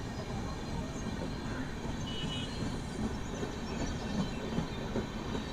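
Train running on the track: a steady rumble of wheels and carriages.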